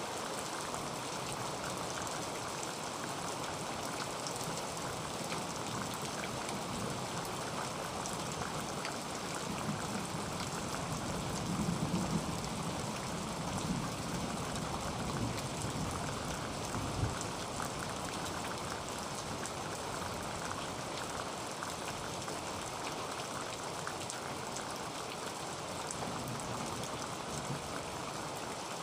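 Heavy rain falling on a tin roof: a dense, steady patter of drops. About halfway through a low rumble swells and fades, followed a few seconds later by a brief thump.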